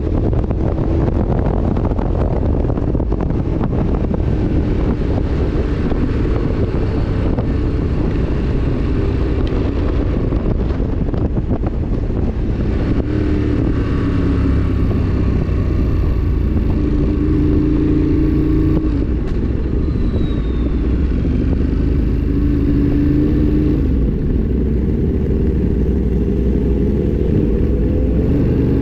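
Motorcycle engine running on the move, its pitch drifting up and down and rising near the end, under heavy wind rumble on the microphone.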